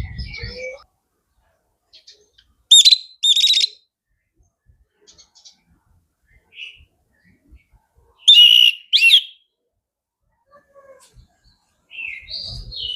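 Chestnut-capped thrush (anis kembang) singing in loud, sweeping whistled phrases. The phrases come in two pairs, about 3 s and 8 s in, with faint scattered notes between them and a softer phrase near the end.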